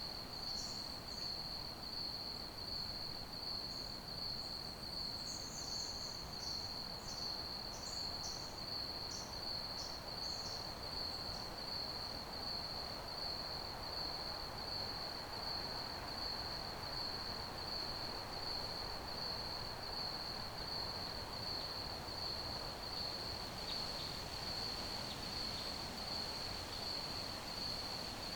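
Crickets chirping steadily in a fast, even, high-pitched trill over a soft hiss of night background noise. A scatter of shorter, higher chirps joins in during the first ten seconds or so.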